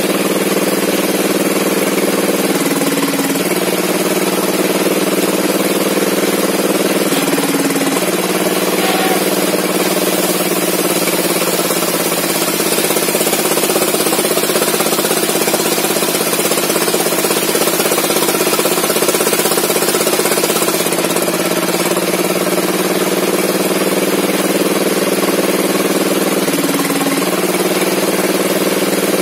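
A small saw engine running steadily at high speed while sawing logs. Its pitch drops briefly a few times: around 3 s in, around 7 s in, and near the end.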